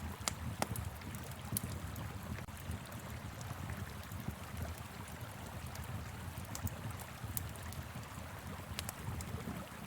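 Wood fire crackling, with a few sharp pops, over the steady rush of a flowing river and a low rumble.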